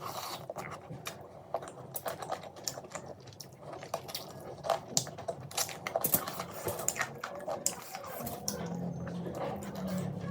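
Close-miked eating sounds: a run of irregular sharp clicks and crunches of chewing and biting, with a low hum near the end.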